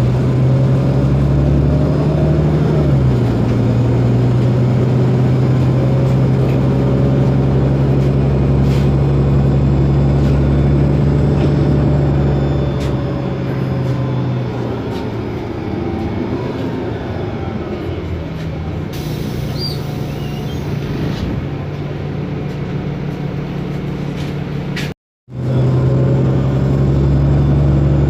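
Otokar Kent LF city bus's Ford Ecotorq diesel engine running under load through its Voith DIWA automatic gearbox, a steady low hum. It eases off about halfway, with a faint gliding whine from the drivetrain. After a brief gap it pulls loudly again.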